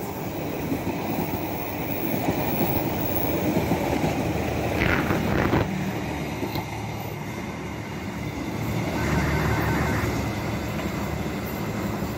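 Passenger train coaches passing close by: a steady rumble and clickety-clack of wheels on the rails, easing as the train draws away near the end.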